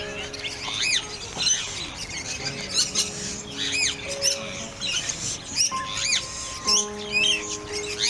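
Birds calling: many short, high, rising-and-falling chirps and squawks, several a second, over background music of held notes.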